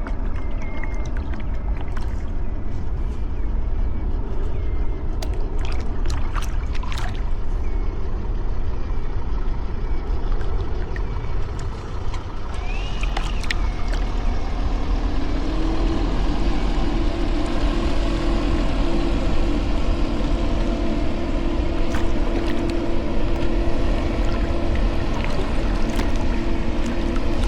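Steady low rumble of wind on the microphone, with a few sharp knocks a quarter of the way in; about halfway through a steady engine hum starts and carries on.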